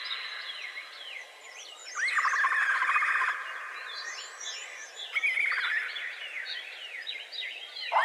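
Several birds chirping: many quick, sweeping chirps overlap throughout. A louder buzzy trill comes in about two seconds in and lasts over a second, and another shorter one follows about five seconds in.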